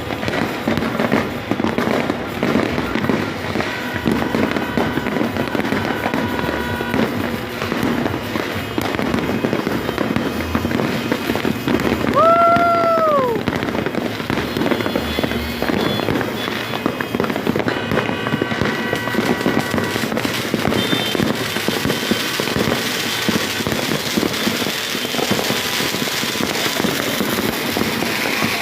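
Fireworks and firecrackers going off thick and fast: overlapping bangs and crackling with no break. About twelve seconds in, a short whistling tone rises and then falls.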